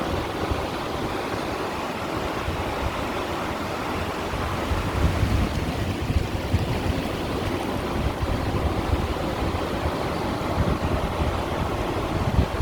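Small sea waves washing steadily against shoreline stones, with a low rumble that comes and goes underneath.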